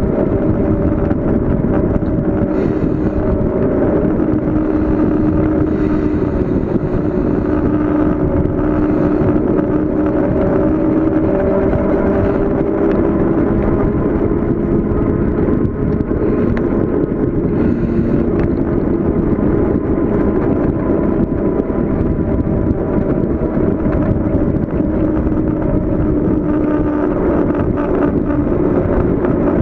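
Bicycle coasting fast downhill: a steady rush of wind on the microphone mixed with tyre hum from the road, its pitch drifting slowly with speed.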